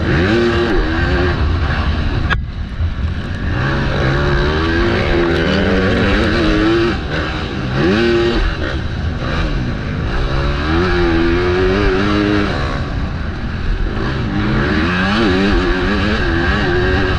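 MX2 motocross bike engine, heard from the rider's helmet, revving hard and dropping back again and again as the rider accelerates, shifts and brakes around the track. There is a brief sharp cut in the sound about two seconds in.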